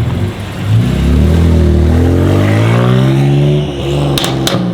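Tuned BMW M2 Competition (TTE740+ turbos, full Akrapovič exhaust) accelerating hard: the twin-turbo straight-six rises steadily in pitch for about three seconds. The revs then drop, and a few sharp bangs crack from the exhaust near the end.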